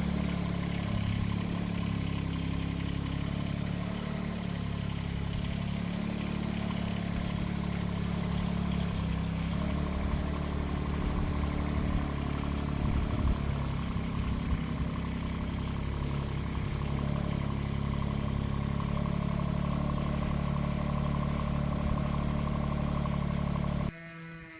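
Mini loader's engine running steadily at a low, even speed, with small rises and falls. It cuts off suddenly shortly before the end.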